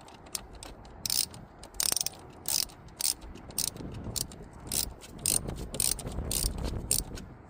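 Socket ratchet clicking in short repeated bursts, about two a second, as it is worked back and forth to tighten the throttle body's bottom mounting bolts.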